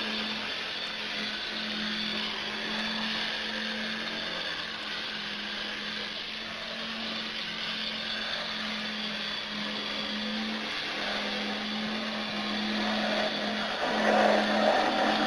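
Jouef BB27 model locomotive with its original gear-driven transmission running: a steady electric motor and gear whir over a low hum, louder for a moment near the end.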